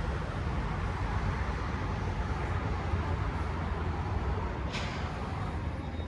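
Steady outdoor noise of wind and distant city traffic, an even rumbling hiss with no distinct events.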